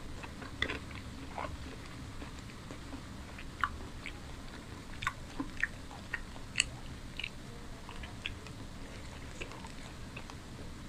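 Close-miked chewing of paratha and chicken curry, with scattered short mouth clicks at irregular intervals over a steady low hum.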